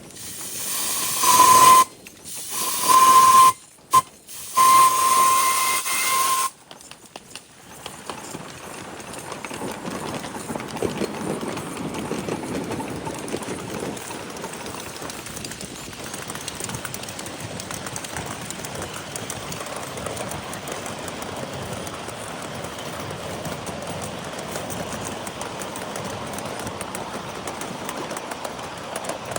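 Whistle of a 7.5-inch gauge live steam locomotive, blown three times in the first few seconds: hissy blasts on one steady pitch, the third the longest. Then the train running steadily along the track.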